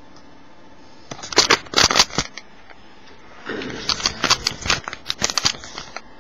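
Small objects being moved around on a tabletop: a short cluster of clicks and knocks about a second in, then a longer run of clattering and rustling from about three and a half seconds in.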